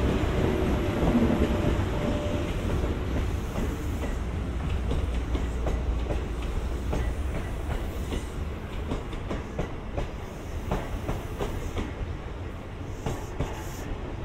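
EF81 electric locomotive hauling a rake of new, unpowered E131-series cars slowly past. A steady rumble with a hum from the locomotive at first gives way to the clatter of the towed cars' wheels over rail joints, which fades gradually as the train pulls away.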